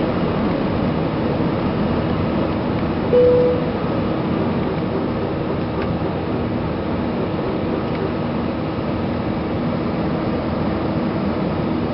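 Airbus A320-200 cabin noise: the steady rumble and hiss of the engines and airflow, with faint steady engine tones. About three seconds in, a single short chime tone sounds.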